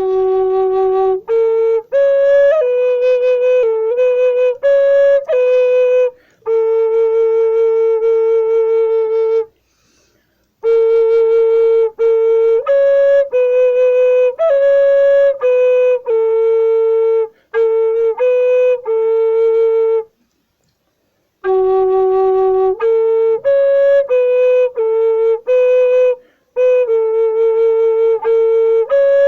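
A solo flute-like wind melody moving among a few notes within a narrow range. The same phrase is played three times, each beginning on a low held note and ending on a long held note, with about a second of silence between phrases.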